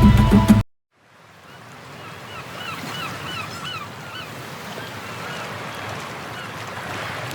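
Background music cuts off abruptly, and after a moment's silence outdoor ambience fades in: a steady hiss with a bird calling over it in a series of short, quick, hooked notes.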